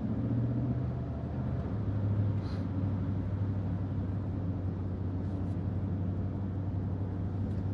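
Steady low drone of a car's engine and tyres heard from inside the cabin while driving.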